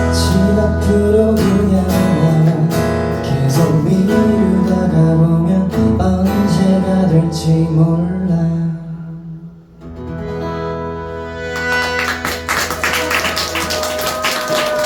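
Live acoustic guitar and voice on a song's closing bars: the last notes ring and die away about nine seconds in. About two seconds later a denser, busier sound of many quick strokes over held tones picks up and runs to the end.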